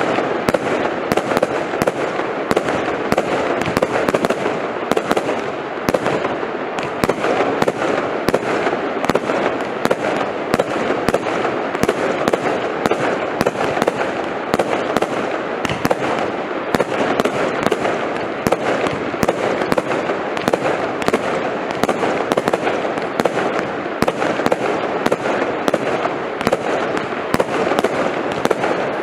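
Prestigious 'Lightning Storm' firework going off: a dense, continuous crackle with sharp bangs about twice a second.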